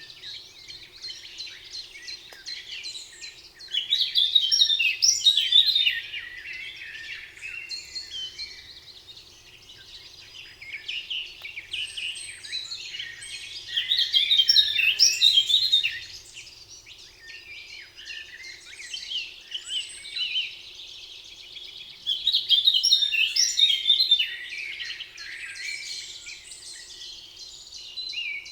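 A dense chorus of songbirds singing, with many overlapping chirps and trills. A louder song phrase stands out three times, about every nine seconds, each lasting two to three seconds.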